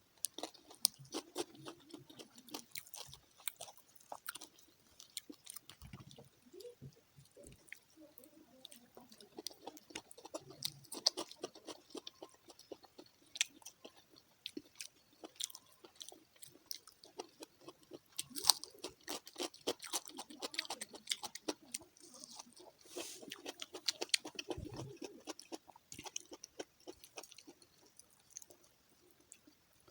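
Close-up chewing of fried fish, with crunchy bites and many small irregular mouth clicks.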